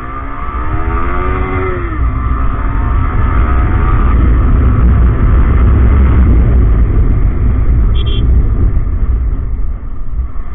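Yamaha R15M's single-cylinder engine pulling up through the revs for about two seconds, then dropping as it shifts, and running on under a heavy low rumble of wind and road. A short high beep sounds about eight seconds in.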